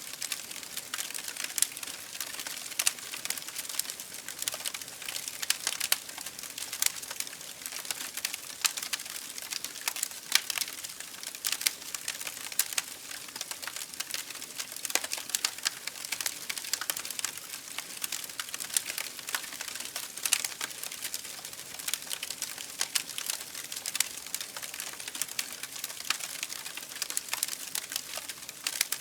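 Campfire burning with constant crackling and snapping, many sharp pops over a soft hiss of flames.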